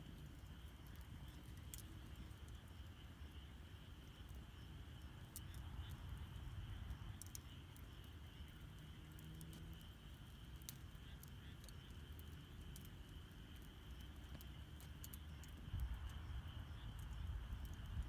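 Wood campfire crackling, with sharp scattered pops, over a low steady rumble of the burning fire that grows louder near the end. Behind it, a steady high-pitched trill of a night insect chorus.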